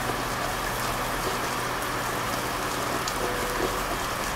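Steady rain falling: an even hiss with scattered drop patter.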